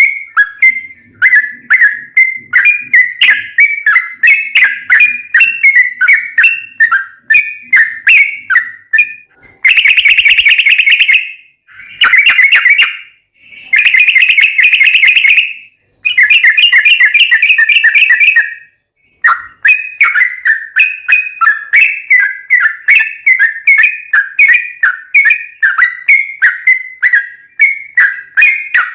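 Sooty-headed bulbul (trucukan) singing: quick whistled notes repeated several times a second. About ten seconds in, this gives way to four long, very fast trills of a second or two each, the 'ropel panjang', before the quick notes return.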